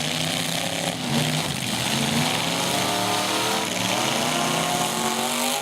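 Engines of demolition derby trucks running at once, with one revving up and climbing steadily in pitch in the second half.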